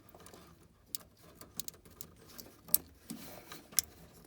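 A few sharp clicks amid light rattling and handling noise as a replacement hot surface ignitor is fitted in a gas furnace and its wire connector is plugged in.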